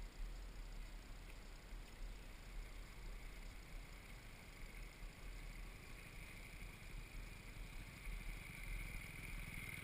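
Faint, distant motocross bike engines, growing louder in the second half, over a low rumble of wind on the microphone.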